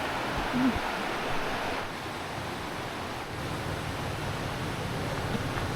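Steady rush of flowing river water, an even hiss without a beat.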